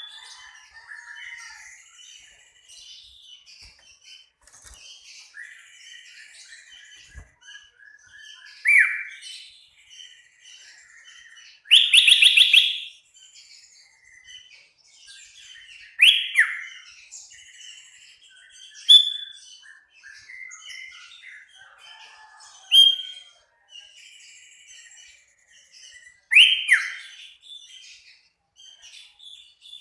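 Sooty-headed bulbul (kutilang) singing in full voice. Continuous soft twittering is broken every few seconds by loud, sharp 'shot' phrases: quick down-slurred notes, a rapid run of loud notes about twelve seconds in, and short high notes.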